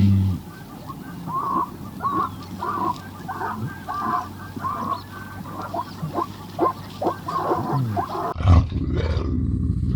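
Animal calls: a rapid series of short, repeated calls, about two a second, over a low steady hum. A little over eight seconds in, it cuts abruptly to a louder, deeper sound that starts with a thump.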